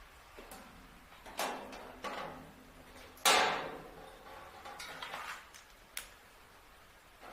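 Scattered knocks and clatter of objects being handled: a few separate hits, the loudest about three seconds in with a short ringing tail, and a sharp click near six seconds.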